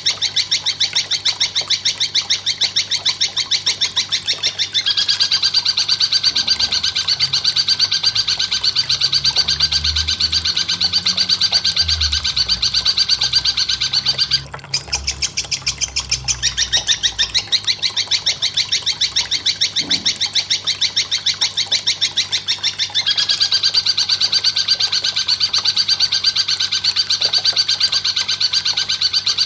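A rapid, high-pitched pulsing trill of an animal call, many pulses a second, running almost without a break. It briefly drops out about halfway and steps louder twice.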